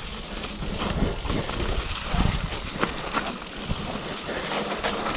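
Downhill mountain bike descending a rough, wet trail: wind buffeting the microphone over a steady rush of tyres on dirt, with scattered knocks and rattles as the bike hits bumps.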